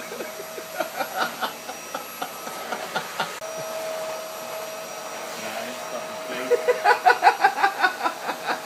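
Vacuum cleaner running with a steady whine, with scattered sharp clicks and, from about two-thirds of the way in, a fast run of loud rattling clicks.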